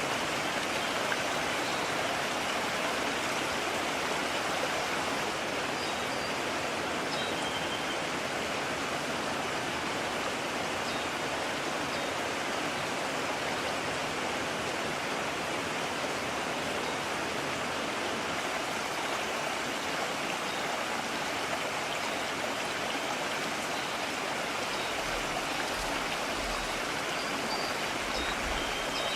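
Mountain stream rushing steadily, an even, unbroken wash of water.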